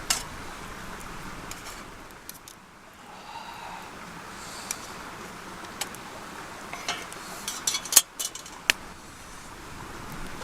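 Mountain stream running steadily, with scattered sharp clicks and knocks over it, clustering about seven to nine seconds in with the loudest one near eight seconds.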